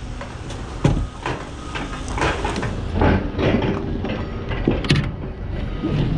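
Scrap metal clanking and banging as it is handled and dumped off a truck: a string of irregular knocks, several with a short metallic ring, over a steady low rumble.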